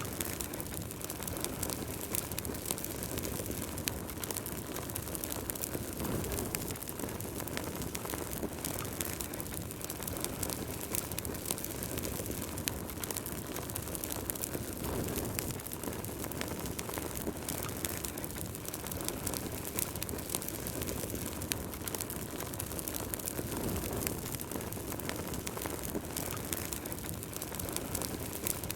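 Wood fire crackling in a fireplace: frequent sharp pops and snaps over a steady rush of burning flames that swells a few times.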